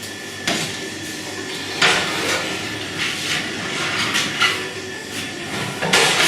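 Bakery handling noise: a run of irregular knocks and scrapes, about five, the loudest near the end, over a steady background hum.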